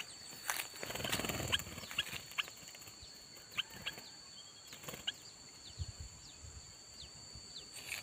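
Short, sharp, high chirps of a small bird, scattered every second or so, over a steady high insect drone. A stretch of rustling comes about a second in and a few low bumps near six seconds.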